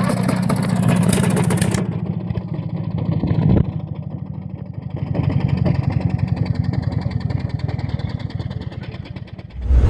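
Hot bulb engine running with a steady, pulsing beat. A sharp knock comes about three and a half seconds in, and the running fades near the end.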